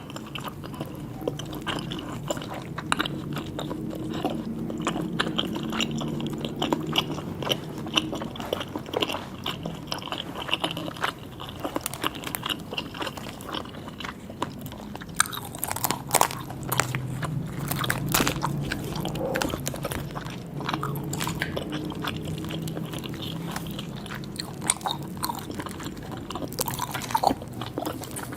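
Close-miked eating of seafood: continual chewing and biting with wet mouth clicks and crunches.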